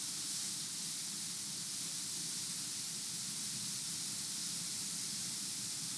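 Steady background hiss, even and unchanging, with a faint low hum beneath it: the recording's noise floor between sentences.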